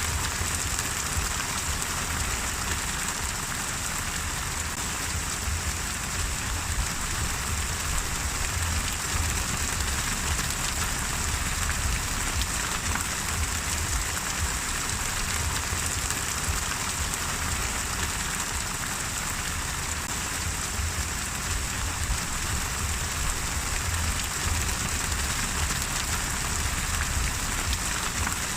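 Steady rain falling on a surface, a constant hiss dense with fine drop ticks.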